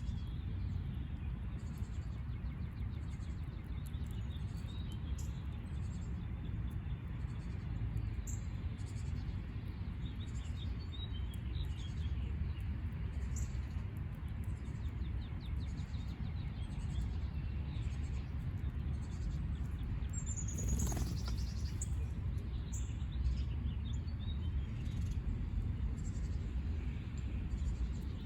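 Small birds chirping and calling in short high notes over a steady low background rumble. About three-quarters of the way through, one louder call sweeps down in pitch.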